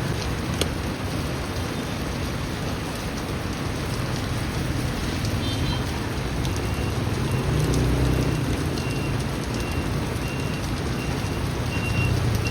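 Heavy rain falling steadily, with a low rumble that swells about two-thirds of the way in. From about halfway, a short high electronic beep repeats at intervals and grows louder near the end.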